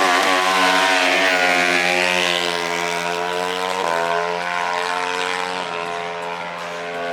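A small engine running at high, fairly steady revs. It starts suddenly, sinks a little in pitch over the first second, and dips slightly twice more before it cuts off.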